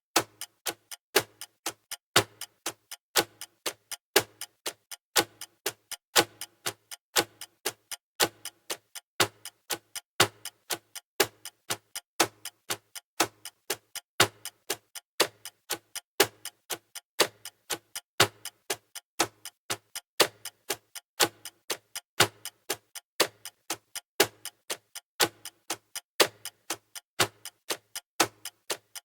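Clock ticking sound effect: sharp, evenly spaced ticks, a louder tick about once a second with softer ticks between.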